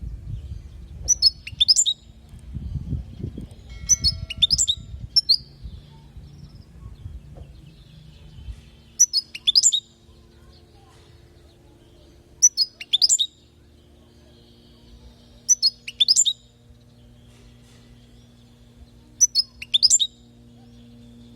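European goldfinch giving short, bright chirping calls in quick clusters of two or three notes, repeated every few seconds. A low rumble underlies the first several seconds, and a faint steady hum follows it.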